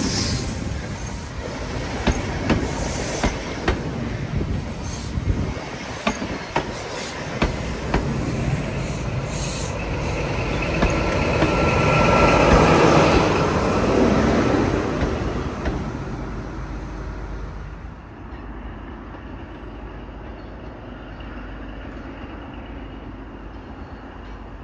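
High Speed Train with Class 43 diesel power cars running by: wheels clicking over rail joints at uneven spacing, the train noise swelling to its loudest about halfway through, then fading to a low steady rumble.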